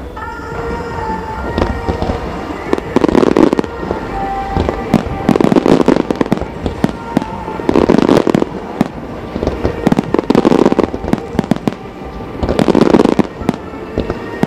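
Starmine fireworks firing: salvos of aerial shells bursting in dense crackling clusters about every two to three seconds, with music playing underneath.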